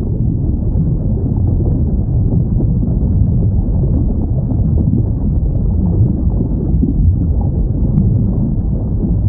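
Steady low rumbling ocean ambience, as heard underwater, with no clear whale call; a faint brief tone rises about seven seconds in, and a small click follows at about eight seconds.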